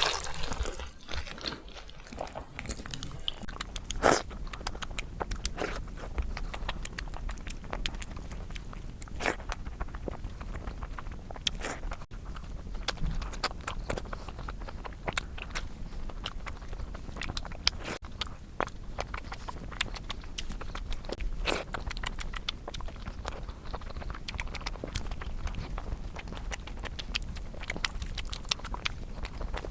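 Close-miked eating: a person chewing and biting, with many sharp mouth clicks and small crunches, over a steady low hum.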